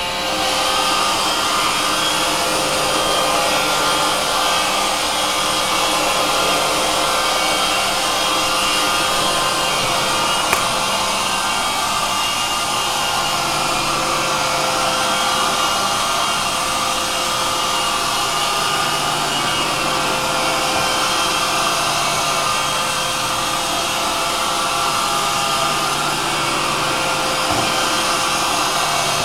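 iRobot Roomba 560 robot vacuum running in spot-clean mode on carpet: a steady whir of its vacuum motor and brushes with a few constant whining tones. There is a single sharp click about ten seconds in.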